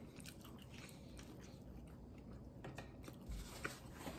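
Faint chewing of a mouthful of pizza, with a few soft, scattered mouth clicks.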